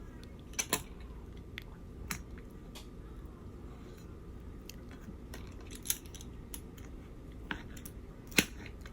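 A thin, crispy pizza crust being sliced: scattered short crunches and clicks as the blade cuts through it, the sharpest about a second in, near the middle and near the end.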